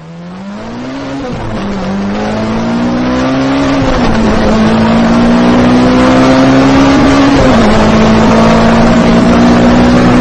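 Racing car engine accelerating and shifting up through the gears. The pitch climbs and drops back at each shift, about three times, then holds high and steady. It grows louder over the first half.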